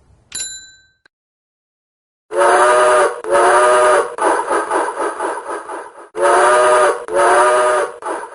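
A short ding, then a steam train whistle blowing two blasts, a pause filled with steam noise, and two more blasts.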